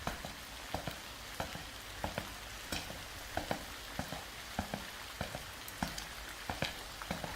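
Rain falling steadily: an even hiss with scattered louder drops ticking, about two a second.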